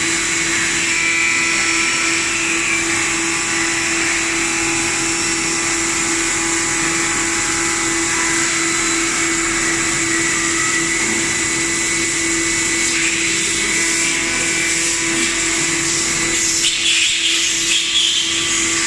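3-axis CNC vertical machining center running: a steady mechanical hum with a constant tone and a high whine over hiss. A rougher, scratchier stretch comes in for about two seconds near the end.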